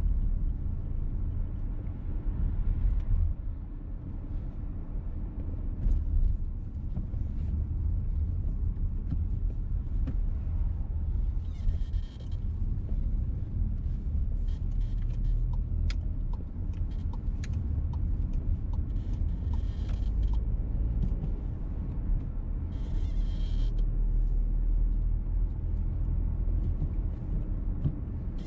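Inside the cabin of a VW T-Roc petrol car driving on an expressway: steady low engine and road rumble.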